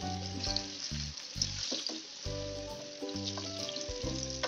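Potato chunks sizzling as they fry in hot oil in a nonstick frying pan, turned now and then with a wooden spatula, under soft background music.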